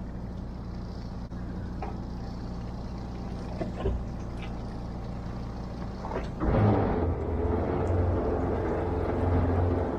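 Fishing boat's engine running steadily, then growing louder and fuller about six and a half seconds in.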